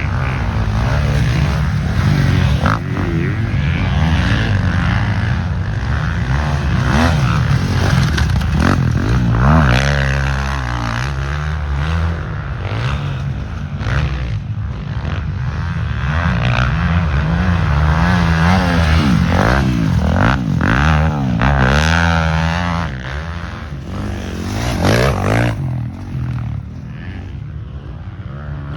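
Motocross dirt bikes riding the track, engines revving up and dropping back over and over as they pass, with sweeping rises and falls in pitch.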